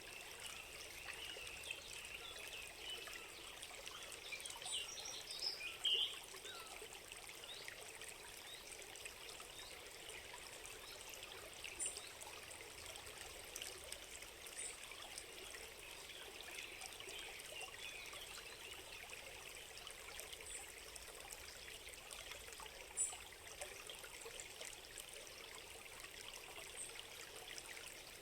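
A small stream trickling and babbling steadily, with a few short high chirps now and then.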